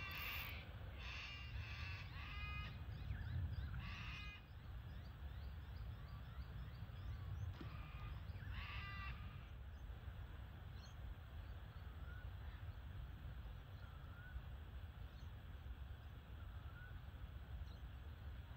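Harsh, crow-like cawing from a bird, in several calls over the first half, with faint small-bird chirps later over a low steady rumble of wind and water.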